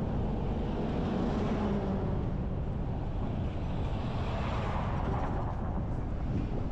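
Steady road noise of a car driving, swelling in the middle range about four to five seconds in.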